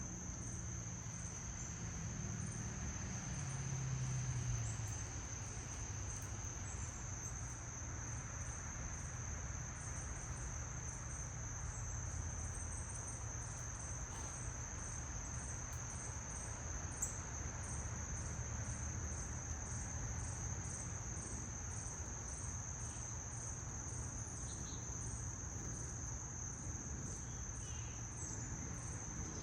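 Insects trilling: one continuous high-pitched trill, with a series of short, higher chirps about twice a second over it. A low, steady hum runs underneath.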